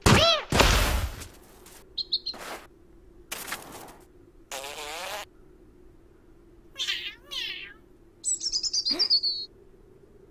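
Cartoon sound effects: a small bird's chirps and tweets, ending in a high warbling tweet about eight seconds in, mixed with short pitched vocal noises of wavering pitch and several brief soft noisy thuds.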